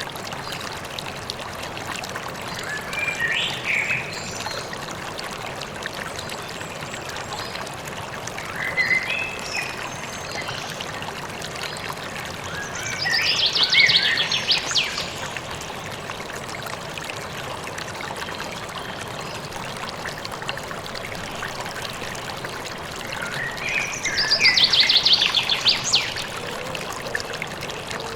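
Steady rush of a flowing river with songbirds singing over it: short phrases about three and nine seconds in, and a louder song ending in a rapid trill around fourteen seconds and again near the end.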